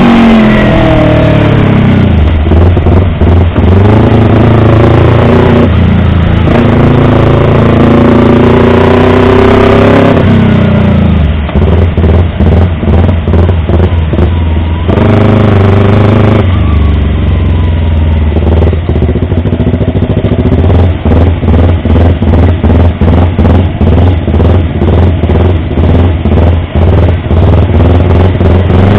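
Yamaha YZF-R25's 250 cc parallel-twin engine and exhaust, loud, revving up with the pitch climbing and dropping back several times. For the later part it runs on a choppy, evenly pulsing note.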